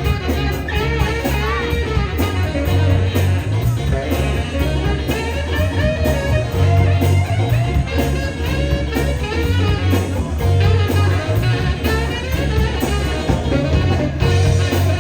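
Live soul band playing a steady instrumental groove on drums, bass, guitar, organ and trumpet, with a saxophone just brought in to take the lead.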